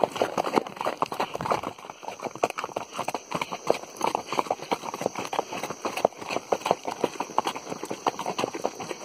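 Horses' hooves clip-clopping at a walk on hard ground: a steady run of irregular, overlapping knocks, several a second.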